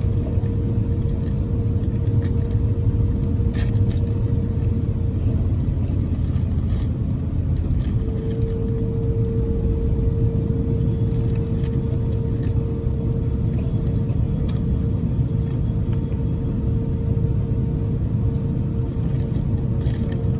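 Steady low rumble of an Airbus A350-1000's Rolls-Royce Trent XWB engines heard inside the passenger cabin, with a thin steady hum over it that drops out for a few seconds about a quarter of the way in and then comes back.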